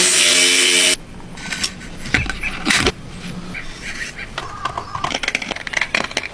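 A power tool's motor whines steadily for about a second and then cuts off. Scattered clicks, knocks and light clattering of tools and wood being handled follow.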